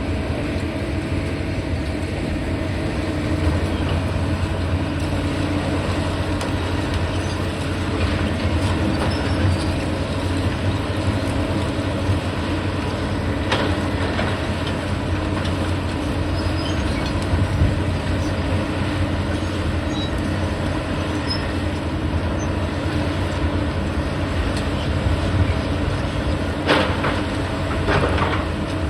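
Heavy diesel demolition machinery running steadily with a low rumble, with occasional sharp clanks or crunches, once about midway and twice near the end.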